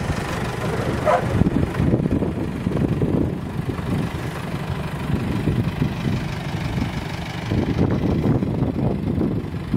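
Engine of a parked off-road jeep idling steadily.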